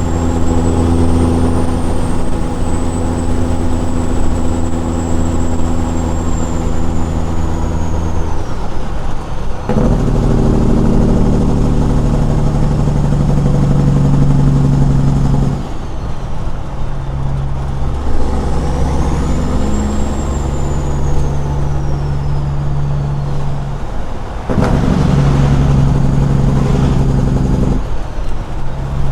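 Straight-piped Caterpillar 6NZ diesel in a Peterbilt 379 truck pulling down the road with a loud, steady exhaust note. The note breaks briefly and changes pitch about three times, as gears are changed. A faint high whistle rises and falls over it.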